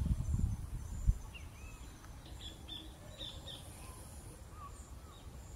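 Faint birds chirping outdoors: scattered short chirps through the middle. A low rumble on the microphone in the first second.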